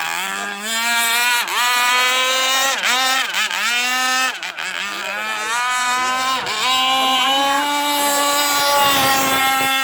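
Gasoline-engined radio-controlled power boat running on the water, its engine pitch dropping and climbing again several times as the throttle is worked, then holding high and steady near the end.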